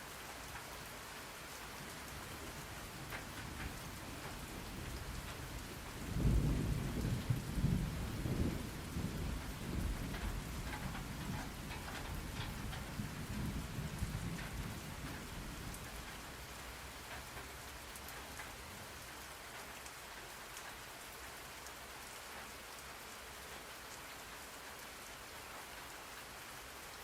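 Steady rain falling, with a roll of thunder that breaks in suddenly about six seconds in, rumbles for several seconds and dies away by about sixteen seconds, leaving the rain.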